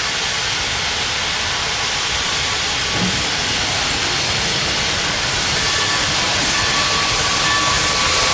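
Steam locomotive hissing steam, a steady hiss that grows a little louder in the second half.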